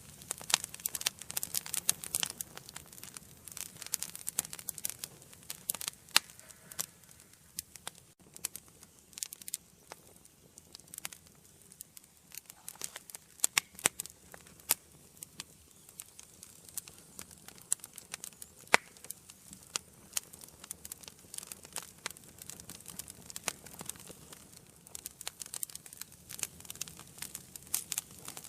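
Wood fire in an indoor fireplace crackling and popping: many irregular sharp snaps, some louder pops scattered through, over a faint low rush of the flames.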